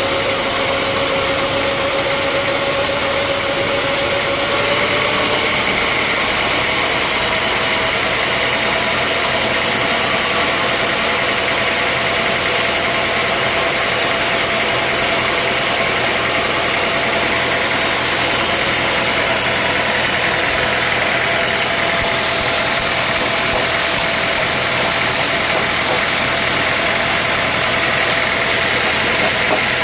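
Sawmill machinery running steadily, an engine-like drone with a whine that rises slightly in pitch about four seconds in and then holds.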